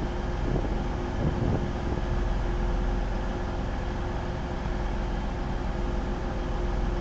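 Class 185 diesel multiple units standing with their Cummins QSK19 diesel engines idling: a steady rumble with one held hum.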